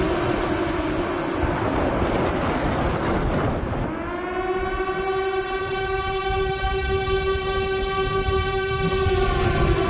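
A siren wailing: one loud pitched tone that slides down, breaks into a noisy rush for a second or two, then winds back up and holds steady before starting to fall again near the end, over a low rumble.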